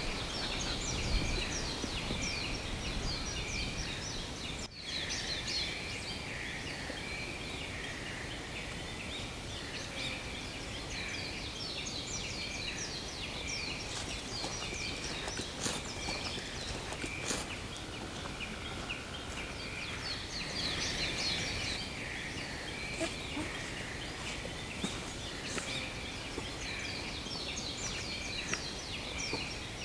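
Wild songbirds singing together in a dense chorus of quick, high chirps and trills over a steady outdoor hiss.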